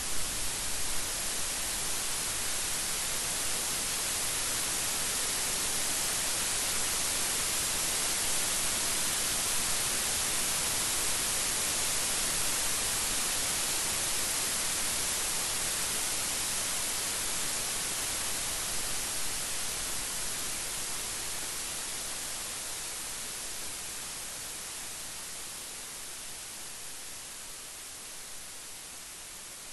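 Heavy rain falling as a steady, dense hiss, swelling slightly and then gradually fading over the last ten seconds or so.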